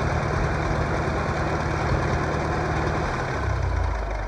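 Farmall M tractor's four-cylinder gasoline engine running with no muffler. About three seconds in, the engine note drops lower and gets somewhat quieter.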